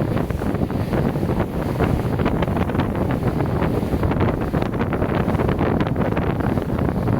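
Wind buffeting the microphone in rapid gusts aboard a moving ferry, over a steady low rumble of the ship and the water.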